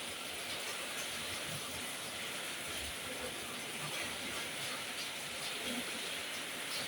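Heavy rain pouring steadily on a roof: a dense, even hiss with scattered sharper drop hits.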